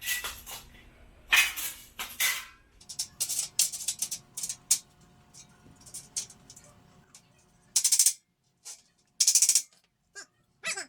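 Steel shelf parts clinking and rattling as they are handled during assembly: a run of irregular metallic clicks and short rattles with pauses between them.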